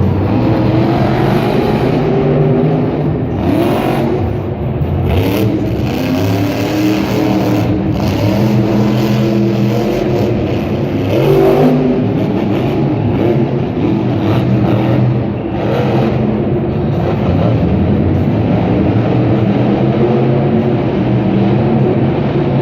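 Monster truck's supercharged V8 engine running loud, revving up and down over and over, its pitch rising and falling with the throttle.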